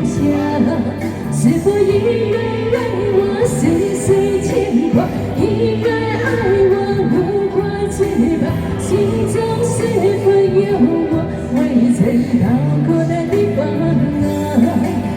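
A voice singing a slow Mandarin pop song over a backing track with held bass notes.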